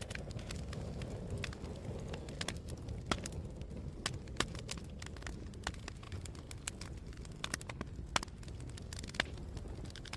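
Wood fire burning in a fireplace: irregular sharp crackles and pops, a few louder than the rest, over a steady low rumble.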